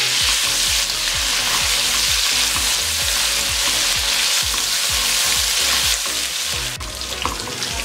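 Mutton pieces with fried onions and ginger-garlic paste sizzling in hot oil in a non-stick kadai, stirred with a silicone spatula: a steady sizzle with repeated stirring strokes, as the meat is browned.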